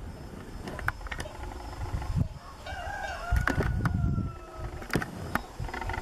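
A bird call about three seconds in: one drawn-out note that wavers at first, then holds and falls slightly, over a steady low rumble and a few sharp clicks.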